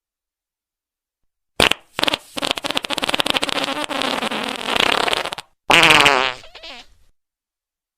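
Fart sound effects played in succession: a short one about a second and a half in, a long rapid fluttering one lasting over three seconds, then a shorter pitched one that trails off.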